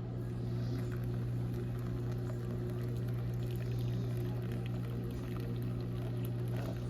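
Faint bubbling and ticking of hot water near the boil, over a steady low hum.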